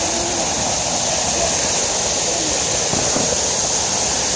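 Waterfall: the steady, even rush of falling water, a hiss strongest in the high range.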